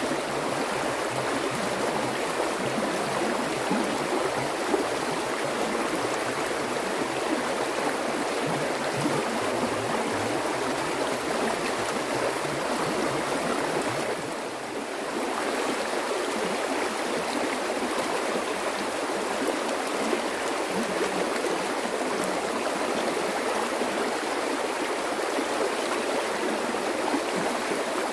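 Water flowing and babbling over stones in a stream, a steady rushing with fine gurgling detail. It dips briefly about halfway through.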